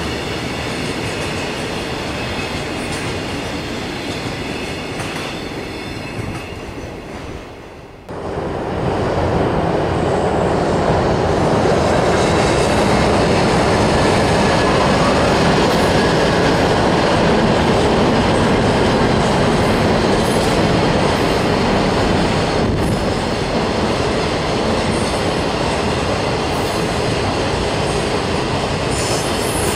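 Container freight wagons rolling past with a faint high wheel squeal, fading away. About eight seconds in comes a cut to a long train of container wagons rumbling steadily and louder across a concrete railway bridge.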